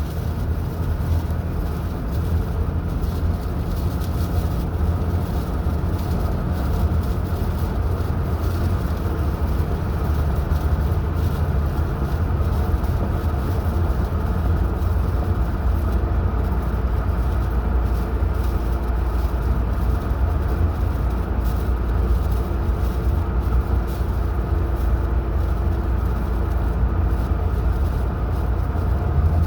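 A car driving at a steady speed: a constant low rumble of engine and tyres on the road, with a faint steady engine hum over it.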